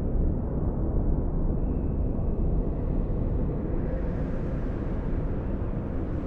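Blizzard wind blowing steadily: a deep, low rush, with a brighter hiss joining about four seconds in.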